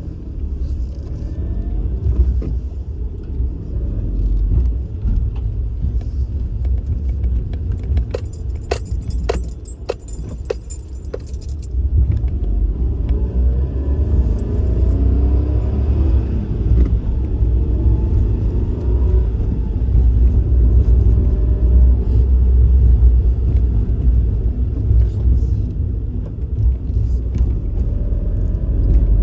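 A Suzuki Kei Works' small three-cylinder engine and road noise as the car drives, a steady low rumble. The engine pitch rises through the gears from about twelve seconds in. A short run of sharp clicks and jingling comes about a third of the way through.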